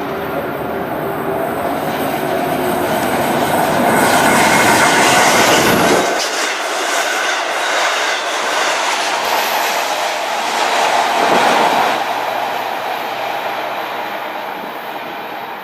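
Long Island Rail Road train passing close by at speed, its wheels clacking over the rail joints. It builds to its loudest about four to six seconds in, stays loud, then fades away toward the end.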